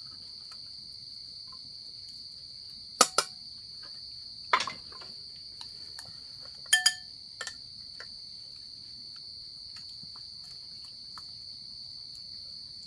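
Insects chirring steadily in a high, even tone. A few sharp knocks and clinks sound over it: two close together about three seconds in, one at about four and a half seconds, and a ringing pair and a last click around seven seconds.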